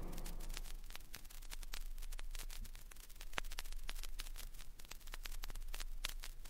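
Vinyl record surface noise in the run-out groove between tracks: faint hiss with a low hum and many irregular crackles and pops. The tail of the previous effect dies away in the first half second.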